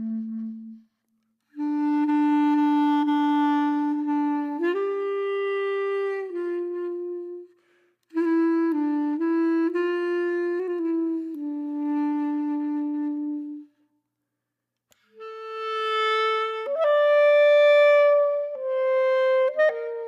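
Background music: a solo woodwind instrument playing a slow melody in three phrases separated by short silences, the last phrase higher and loudest.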